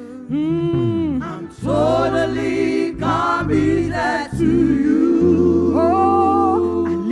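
Gospel worship song: voices sing long, drawn-out phrases over held low backing notes.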